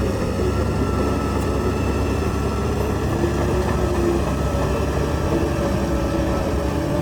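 Heavy diesel earthmoving machinery running steadily: a loud, continuous low engine rumble with a faint wavering whine.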